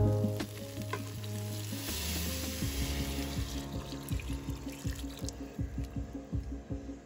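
Chana dal sizzling in a hot Instant Pot inner pot and being stirred with a silicone spatula, the sizzle swelling about two seconds in as water is poured into the hot pot. Background music plays under it.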